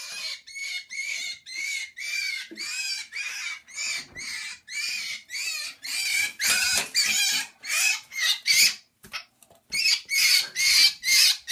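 Trapped birds giving short, harsh calls over and over, about two a second, louder in the second half with a brief pause about three-quarters of the way through.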